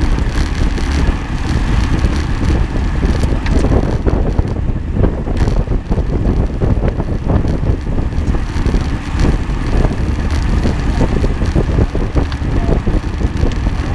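Wind buffeting the microphone of a vehicle moving over rough ground, with a steady low rumble and constant small rattles and knocks.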